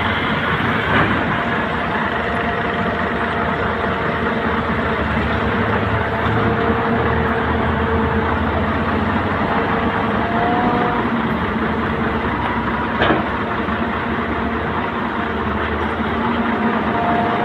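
Heavy diesel engine running steadily at earthmoving work, with a held whine that shifts slightly in pitch. There is a sharp knock about a second in and another near thirteen seconds.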